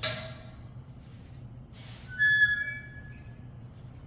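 A short rattle at the start, then two brief high squeaks about two and three seconds in, like a whiteboard marker dragged across the board while a tally is written up.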